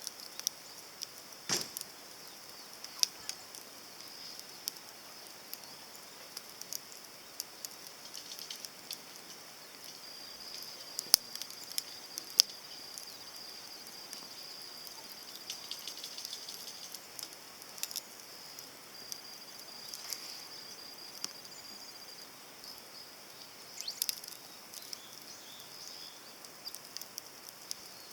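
Small wood fire burning in a compact titanium grill, crackling with irregular sharp snaps, two louder pops in the middle.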